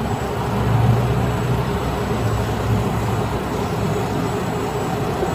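Steady low rumble of an idling motor vehicle, with no sharp events.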